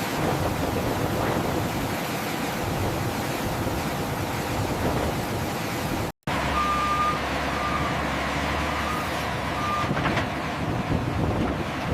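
Steady vehicle engine noise on the flight line. After a sudden break about six seconds in, a low engine hum continues and a vehicle's backup alarm beeps a few times, unevenly.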